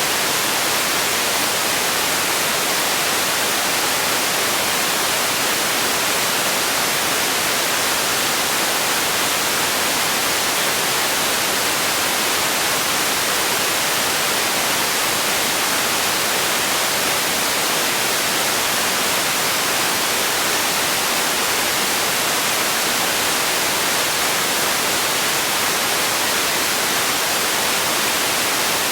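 Steady synthetic hiss-like noise for sleep, even and unchanging, with most of its energy in the upper range and little bass, close to white noise.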